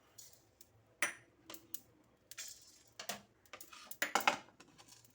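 Whole spices being stirred in a hot, dry kadai during dry-roasting: irregular clinks and short scrapes of a spatula against the pan, busiest near the end.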